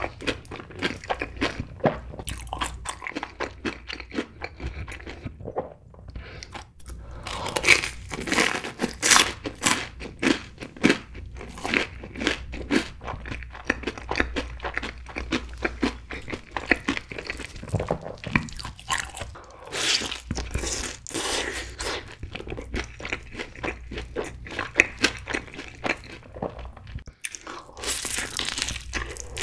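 Close-miked chewing of crunchy fried food: a Cheetos-crusted corn dog crackling between the teeth in many small, irregular crunches, with louder bursts of crunching. Near the end comes a bite into a sweet-spicy glazed fried chicken drumstick.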